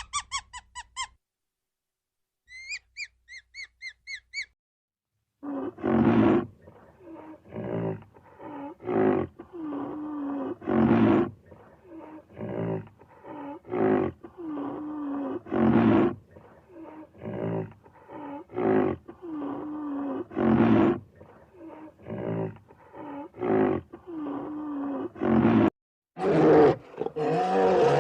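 High-pitched squeaky chirps at the start and again a couple of seconds in. Then a large animal gives a long, rhythmic run of loud roaring calls, a louder call about every two to three seconds with shorter ones between. A different call starts after a brief break near the end.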